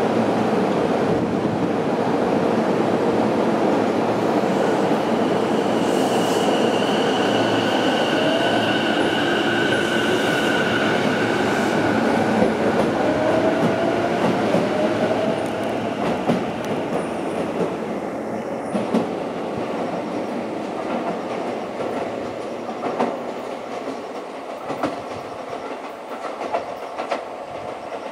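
Sotetsu 12000 series electric train departing a station: the traction motors' whine rises in pitch as it accelerates, over the rumble and clacking of the wheels on the rails. The sound fades over the second half as the train pulls away, with scattered clicks from the wheels near the end.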